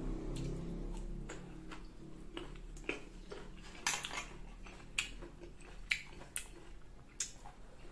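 Close-miked chewing of crisp, unripe green mango: irregular sharp crunches, roughly one or two a second, with a low closed-mouth hum in the first second or so.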